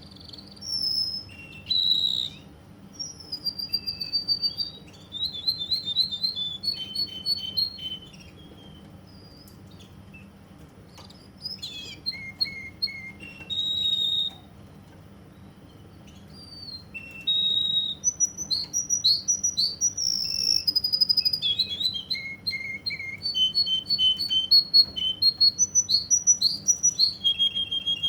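Russian canary singing: phrases of whistled notes and fast rolling trills, broken by short pauses, then a long unbroken run of song in the second half. A steady low hum runs underneath.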